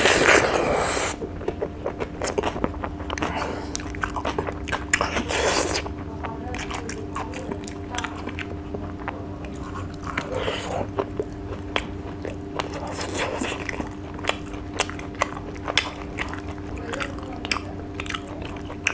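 Close-up chewing and biting of a person eating rice and dry fish by hand, with many small crunchy clicks and wet mouth sounds. A louder bite comes at the very start and again around five seconds in.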